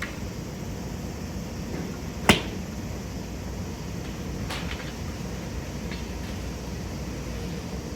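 A golf club striking a ball with one sharp, loud click a little over two seconds in, followed by two fainter strikes, over a steady low hum.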